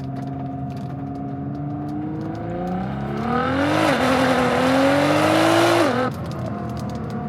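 Nissan GT-R R35's twin-turbo V6 running at a steady cruise, then revving up hard from about three seconds in, with a quick upshift partway and a rushing noise joining under full throttle. The throttle is lifted sharply about six seconds in and the engine drops back to a steady cruise.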